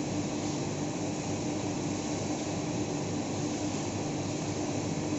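Washing machine running steadily, a continuous machine hum with a steady mid-pitched whine.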